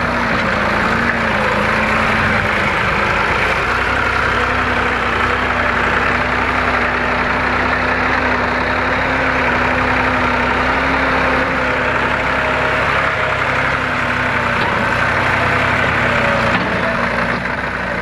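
Massey Ferguson 260 tractor's three-cylinder diesel engine running steadily at a fairly even speed.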